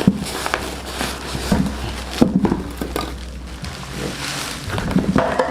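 Handling noise from unpacking a boxed air pump: irregular knocks, scrapes and rustles of the packaging as the pump is lifted out.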